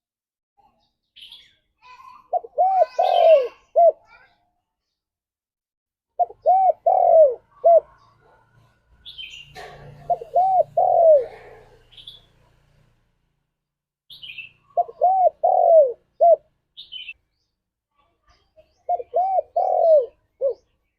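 Spotted dove (tekukur) cooing: five phrases of about four low, rounded notes each, spaced about four seconds apart, with faint higher chirps from other birds between them.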